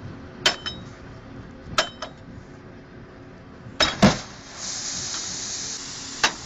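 Sharp clinks and knocks of sandstone blocks being handled while unloaded from a railway wagon, several with a short metallic ring. There are about six in all, the loudest a close pair about four seconds in.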